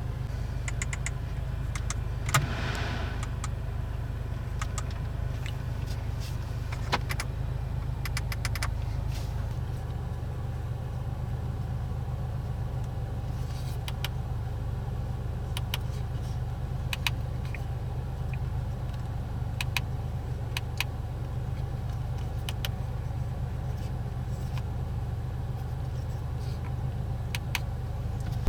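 Steady low rumble of the Audi S3's 2.0-litre turbo four-cylinder car running, with scattered small clicks over it.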